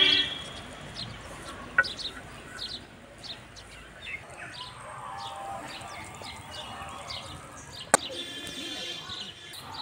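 Small birds chirping repeatedly, with two sharp knocks, one about two seconds in and one about eight seconds in.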